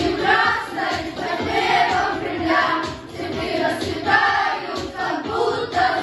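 Boys' vocal ensemble singing together over musical accompaniment with a steady beat.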